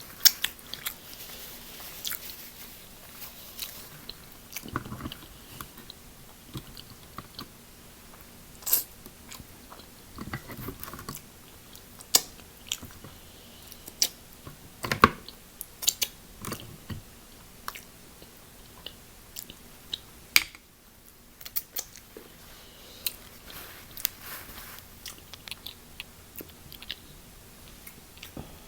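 A person eating a seafood boil close to the microphone: chewing and biting, with irregular sharp crunches and clicks, and a short lull about two-thirds of the way through.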